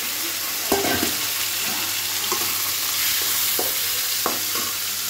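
Chicken pieces just added to hot oil sizzling in a metal kadai, stirred with a spatula that taps and scrapes against the pan a few times.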